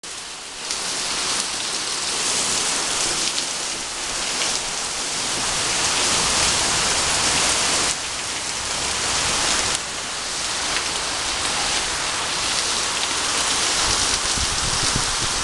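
Heavy rain pouring steadily on leaves, hedges and pavement, a dense, even hiss that gets louder about a second in.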